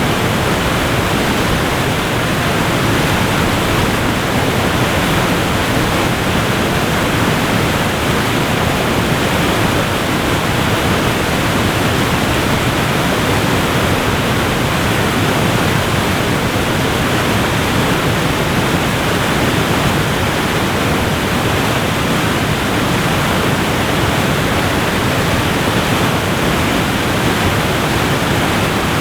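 Waterfall: a steady, loud rush of falling water, with most of its weight in the low and middle range and little high hiss.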